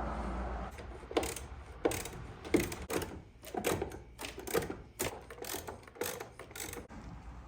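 Hand ratchet wrench clicking in short strokes, about two a second, as it loosens the nuts holding the windshield wiper motor of a 1978 Corvette.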